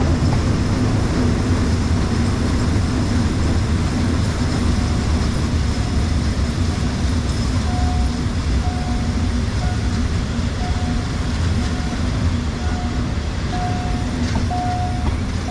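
Passenger train running steadily: a continuous low rumble with a steady hum. From about eight seconds in, a short high tone sounds on and off over it in dashes.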